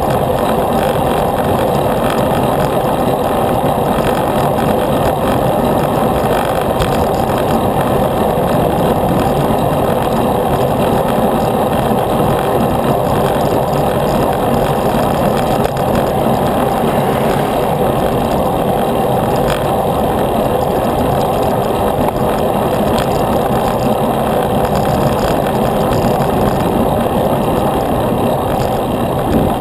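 Steady rushing wind noise on the microphone of a camera carried on a moving bicycle.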